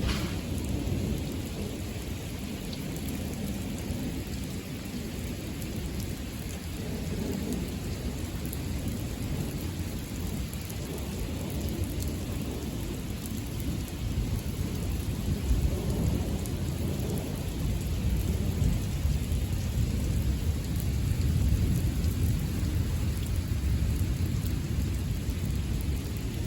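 Thunderstorm: steady rain with deep rolling thunder, the rumble building in the second half.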